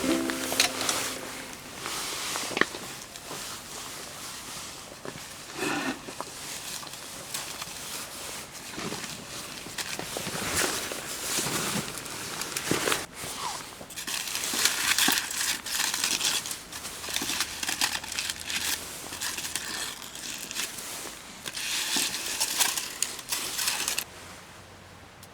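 Irregular crinkling and rustling in uneven spurts, which stops suddenly near the end.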